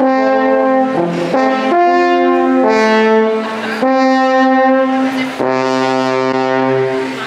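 Live brass instruments playing slow, held chords, the harmony changing about once a second with short breaks between phrases.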